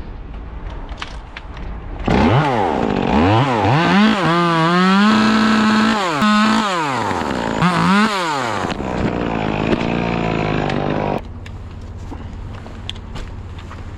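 Two-stroke chainsaw revved in several quick rises and falls, held at full throttle for a second or so, then dropping to idle and cutting off abruptly about three-quarters of the way through.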